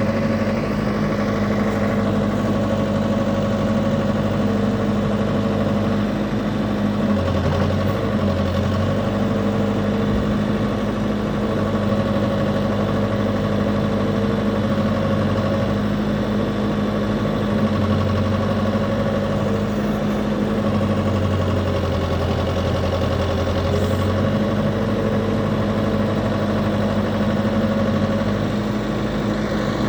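Komatsu WB93-2A backhoe loader's diesel engine running steadily at idle.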